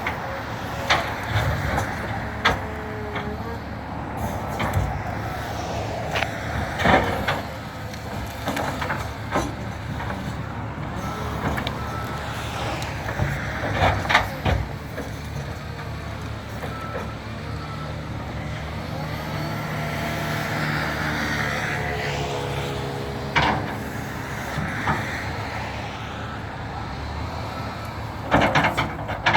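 Tractor loader's engine running steadily, with scattered knocks and thuds of wood as cut trees are handled. Around the middle a wavering whine rises and falls over the engine.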